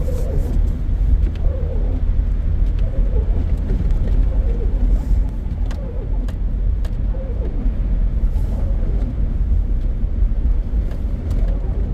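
2006 Toyota 4Runner 4x4 driving through snow, heard from inside the cabin as a steady low rumble of engine and tyres with a few faint clicks.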